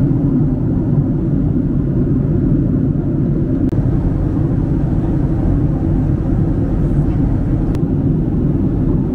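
Steady low rumble of a Boeing 767-300's engines and airflow heard inside the cabin in flight, with two faint clicks a few seconds apart.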